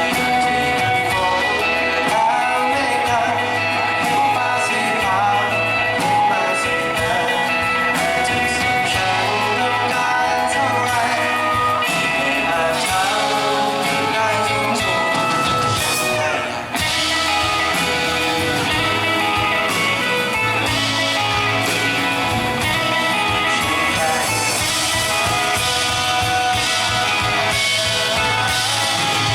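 Live pop-rock band performing a song: a singer over guitars, bass and drums, with one very short break in the sound about halfway through.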